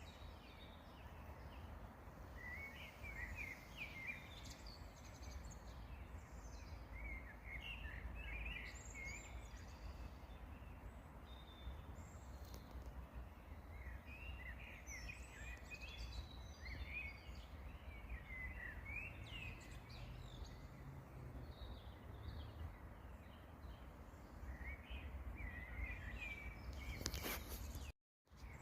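Several songbirds chirping in short, scattered bursts of song over a low, steady outdoor rumble, with a brief cut to silence near the end.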